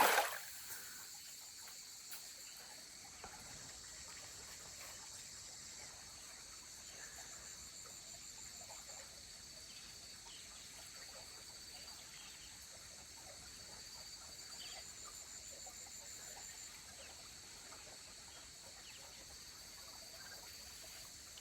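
Faint forest insect chorus: crickets chirring in steady high-pitched drones, one of them pulsing, with a few faint ticks.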